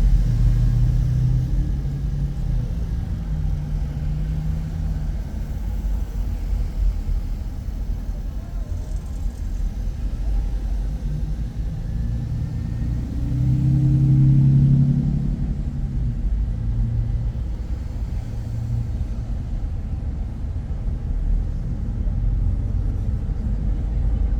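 Car driving: a steady low rumble of engine and road noise, swelling louder for a couple of seconds about halfway through.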